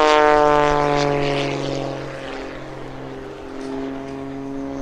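Oracle Challenger III aerobatic biplane flying low and slow past, its propeller engine loudest at the start and dropping in pitch as it goes by, then running on more quietly.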